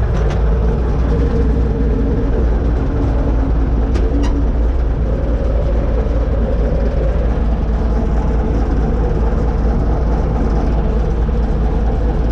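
U650 tractor's four-cylinder diesel engine running steadily under load while pulling a disc harrow, with a constant low rumble and two faint clicks.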